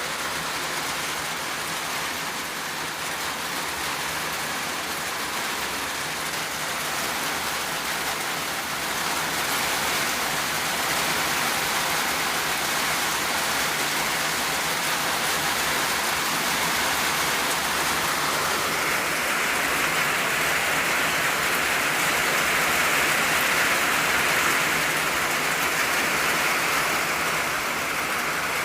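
Rain falling on an old tin roof: a dense, steady patter that gets a little louder about ten seconds in.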